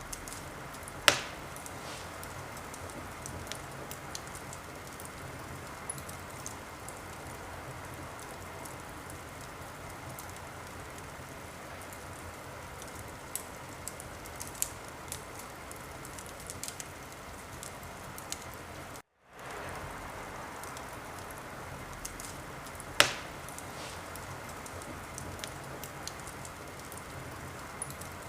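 Wood fire crackling in a fireplace: a steady hiss with scattered small crackles and two sharp, loud pops, one about a second in and one near the end. The sound cuts out completely for a split second about two-thirds of the way through.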